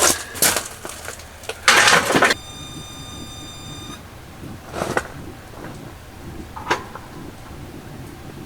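Knocks and clatter of things being handled, with a loud scraping rustle about two seconds in. Right after it comes a steady high-pitched tone that lasts about a second and a half and stops abruptly. A few single knocks follow.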